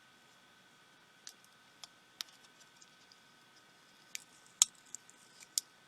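A handful of light, sharp clicks and ticks from small plastic parts of a pico projector being handled and pried apart during disassembly, irregularly spaced, the loudest about four and a half seconds in.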